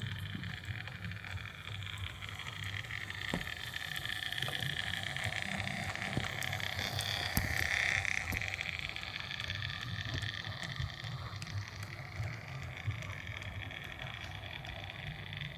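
Rivarossi Pocher model 4-4-0 steam locomotive running on track with its freight train: a steady whirring of motor and gears with scattered clicks of wheels over rail joints. It grows louder to a peak about eight seconds in as it passes closest, then eases off.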